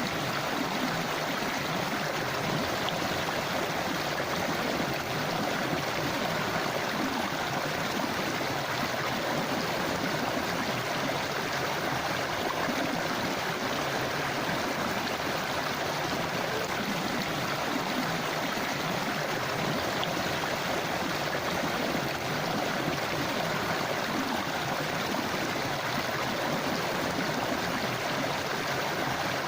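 A river or forest stream flowing and rushing steadily over rocks.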